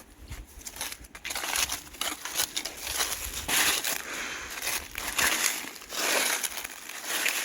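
Footsteps crunching and rustling through dry weeds and brush, an irregular run of noisy crunches.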